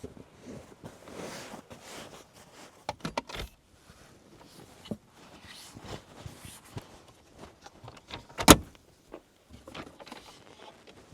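Scattered clicks, rustles and knocks of things being handled and put down, with one loud knock about eight and a half seconds in.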